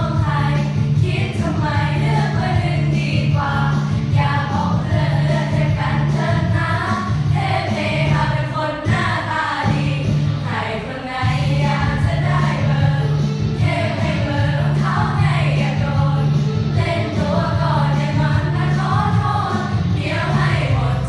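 A group of girls singing an election campaign song together, with steady musical accompaniment beneath the voices.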